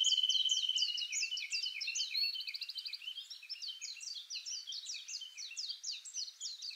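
Small birds chirping in a busy chorus: many quick, overlapping falling chirps, with a trill in the first second and another higher one about two seconds in.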